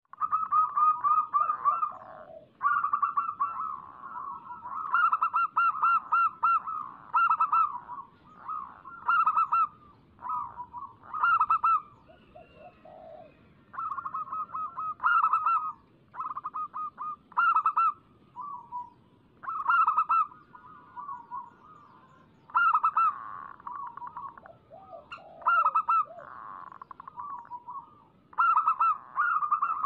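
Zebra doves (local perkutut) cooing: repeated bouts of rapid, staccato coo notes, a loud bout every two seconds or so, with softer, lower coos in between.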